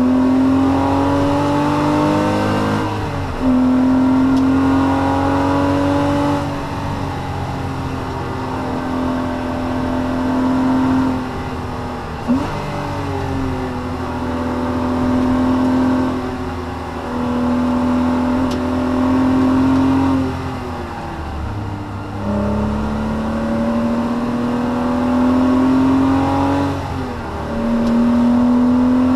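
Porsche Cayman S (987 mk2) 3.4-litre flat-six heard from inside the cabin at track speed, its note slowly climbing under acceleration and dropping back sharply about four times, over steady tyre and road rumble.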